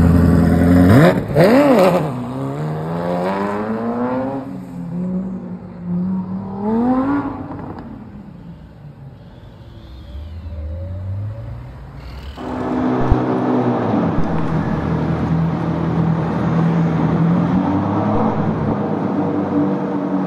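Ferrari F40's twin-turbo V8 revving. A sharp blip about a second in falls away in a sweep, another rise in revs comes around seven seconds, and after a quieter few seconds the engine runs loudly at steady revs from about twelve seconds in.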